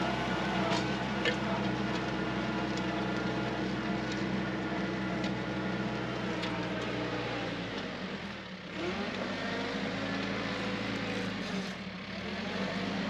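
TYM 4815 compact tractor's diesel engine running steadily while pulling a cutting harrow, its sound dipping briefly twice, near the middle and near the end, then picking back up.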